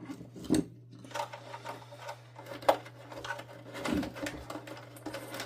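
Wiring being pulled through the plastic housing of a Hoover Dimension 1000 canister vacuum: irregular scraping, rubbing and clicks, with a sharper click about two and a half seconds in, over a steady low hum.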